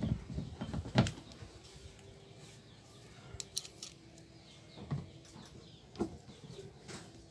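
Scattered knocks and clicks, the loudest about a second in, with quieter stretches between them.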